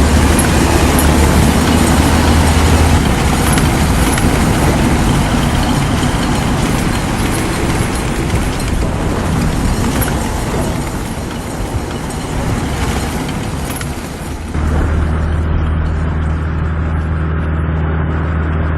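Steady rumble of heavy vehicle engines under dense noise, with a low hum and no distinct shots. About three-quarters of the way through, the sound changes abruptly to a steadier low hum with the high end cut off.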